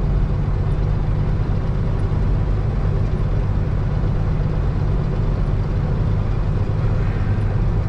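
Heavy diesel haul truck's engine running steadily, an even low drone.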